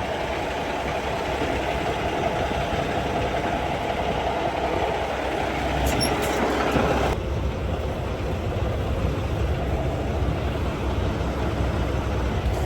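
A heavy truck's diesel engine running steadily at idle. A higher hissing layer over it cuts off suddenly about seven seconds in.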